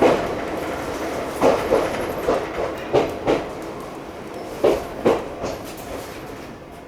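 Chichibu Railway 1000 series electric train running over jointed track: wheels knocking over the rail joints in pairs over a steady running rumble. The pairs of knocks come further apart and the running noise fades toward the end as the train slows.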